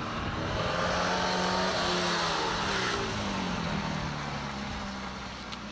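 1969 Saab Sonett V4's Ford V4 engine under hard driving on an autocross course: its pitch climbs about a second in, falls away again, then runs lower and a little quieter near the end.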